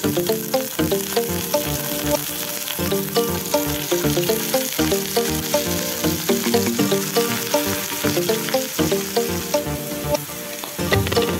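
Oil sizzling in a frying pan as a curry-leaf sprig and masala-coated fish steaks fry, with a steady hiss, under background music with a quick run of notes.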